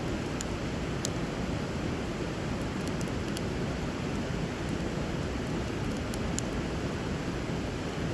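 Steady rush of flowing river water, with a wood fire giving occasional sharp crackles and pops, about half a dozen over the stretch.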